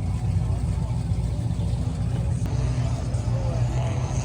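Car engine idling with a steady low rumble, no revving, and faint voices behind it.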